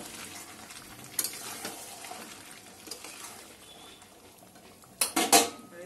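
Chicken curry sizzling in a metal kadai as it is stirred with a metal spatula, the hiss slowly dying down, with a few light scrapes and clicks. Two loud knocks about five seconds in.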